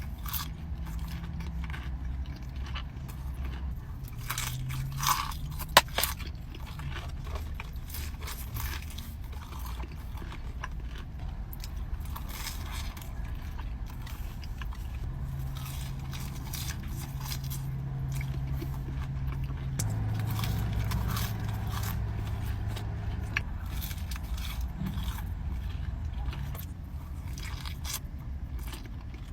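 A person eating: repeated crunchy bites and chewing with crackling and scraping of food, over a steady low hum, with one sharp click about six seconds in.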